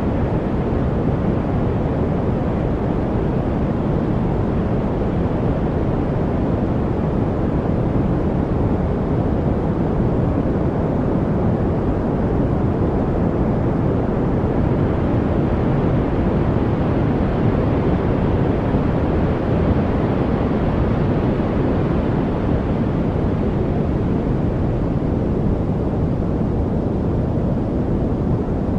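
Continuous study-noise track: a steady, deep, even rush of noise with most of its weight in the low end and no birdsong, drips or other distinct events.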